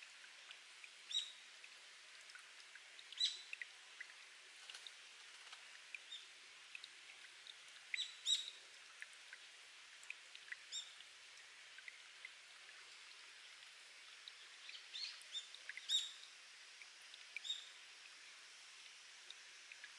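Spring water dripping from rock into a pool, with irregular, sharp plinks over a faint steady trickle, mixed with short chirps of wild birds.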